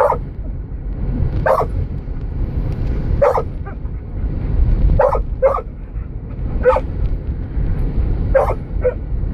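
A dog barking in single barks, about eight at uneven intervals, over the steady low rumble of a car driving.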